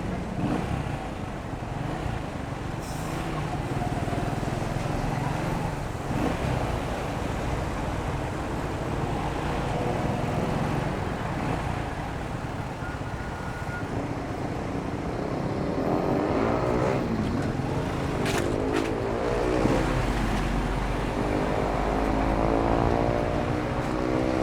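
Motorcycle engine running on the move through street traffic, its pitch rising and falling as it speeds up and slows, most plainly in the second half. Two short sharp clicks come about eighteen seconds in.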